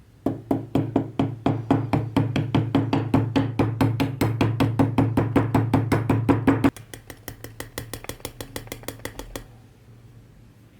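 Fast, even strokes of hand work on a brass box, about seven a second: loud for the first six seconds or so, then fainter for about three more, over a steady low hum.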